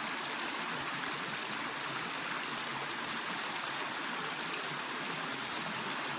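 Running water from a creek: a steady, even rush.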